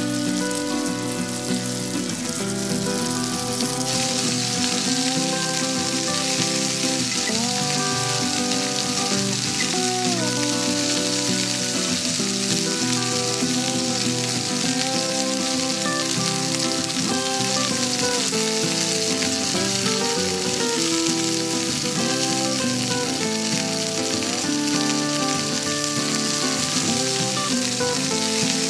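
Chopped garlic and minced pork frying in a little oil in a miniature clay pot, a steady sizzle as they are stirred with a tiny wooden spatula. The sizzle grows louder about four seconds in. A melody plays over it.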